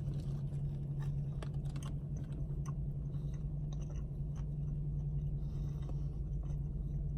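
A man biting into a grilled chicken sandwich and chewing it, with small wet mouth clicks, over a steady low hum in the car's cabin.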